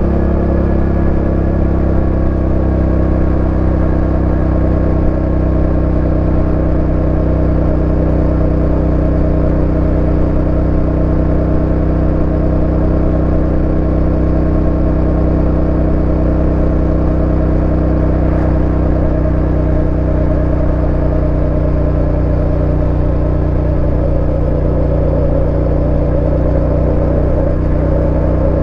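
Yamaha Ténéré 700's 689 cc parallel-twin engine running steadily, its pitch holding almost unchanged throughout.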